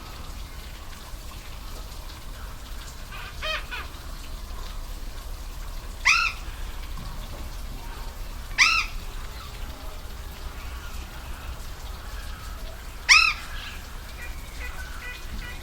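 Waterfall rushing steadily, with a bird calling four times over it: short, clear, arching calls, the first faint and the last three loud, spaced a few seconds apart.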